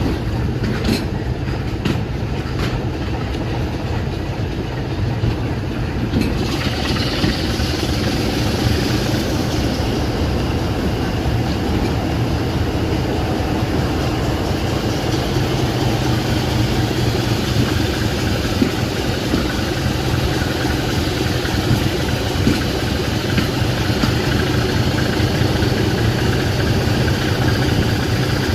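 Heritage train running on the rails: a steady, heavy rumble with a few sharp clicks in the first seconds, and a brighter hiss joining in about six seconds in.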